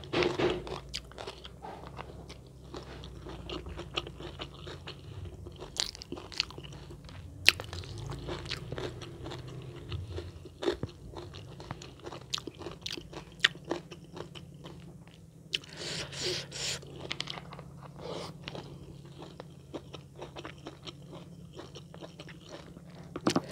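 A person chewing and crunching mouthfuls of rice, fried salted fish and raw jengkol close to the microphone, with irregular crisp crunches and mouth clicks and a denser burst of crunching about sixteen seconds in.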